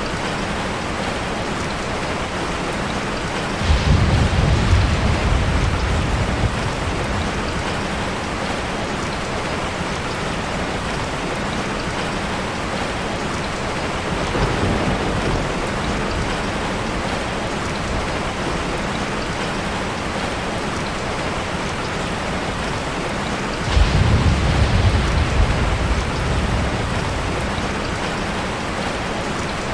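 Steady rain with three rolls of thunder: a loud rumble about four seconds in, a fainter one about halfway through, and another loud one near the end, each lasting a few seconds.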